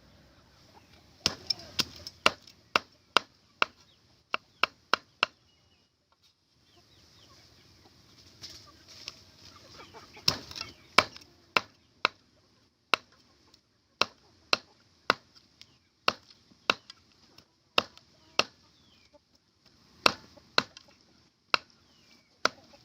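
Repeated chopping strikes of a knife or cleaver on a cutting board, about one to two sharp blows a second, with a brief pause about six seconds in.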